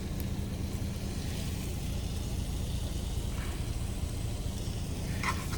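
Steady low rumble of the semi-truck's idling engine, with a steak sizzling in the pan just after being flipped.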